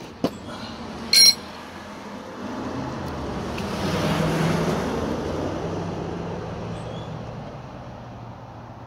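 A vehicle passing on the road: engine and tyre noise that swells to a peak about halfway through and fades away slowly. A short, loud, high beep sounds about a second in.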